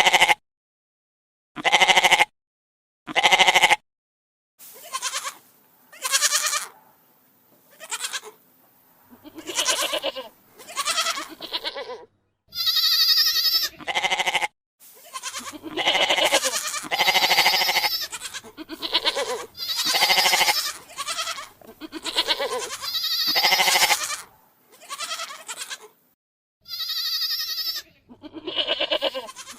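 Goats bleating, a long string of separate calls one after another. The first three are short and loud with silent gaps between them, then the calls come closer together and vary in loudness, some with a wavering, quavering pitch.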